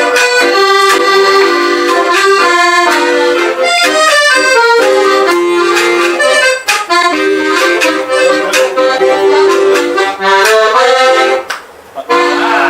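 Accordion playing a lively melody over sustained chords, with a brief break in the playing near the end.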